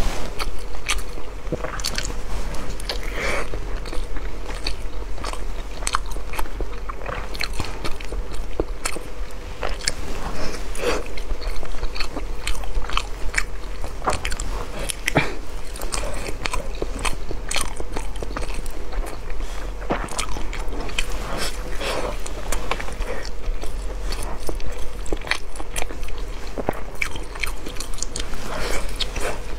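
Close-miked eating of a browned, glazed sticky rice cake: irregular bites, crunches and wet chewing clicks following one another without pause.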